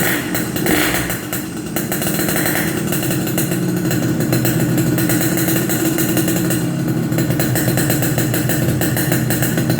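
Yamaha RX-King two-stroke single-cylinder engine running through an aftermarket Boban Bobokan exhaust, mostly at a steady idle, with a short swell in revs about a second in.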